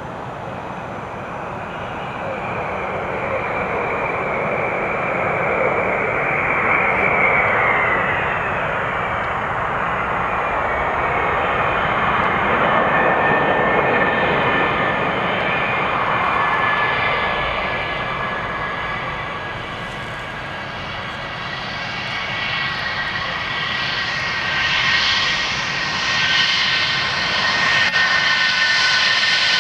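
Tu-22M3 bomber's twin NK-25 turbofan jet engines during landing: a loud, continuous roar that swells and dips. A whining tone slides down about eight seconds in, and steady high-pitched whines grow stronger over the last third.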